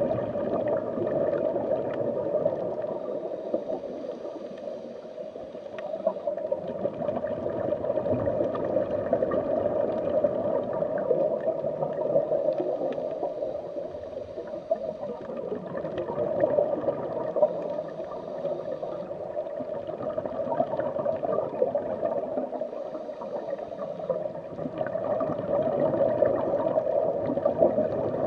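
Underwater bubbling and gurgling water sound effect, a steady watery wash that rises and falls in slow swells.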